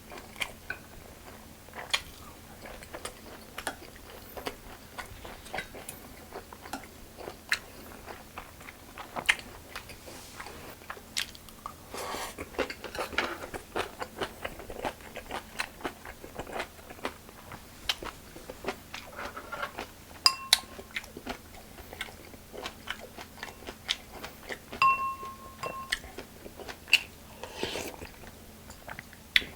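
Close-miked eating: a man chewing and crunching food, with many short crisp crunches and mouth clicks. There are a few short ringing clinks in the second half.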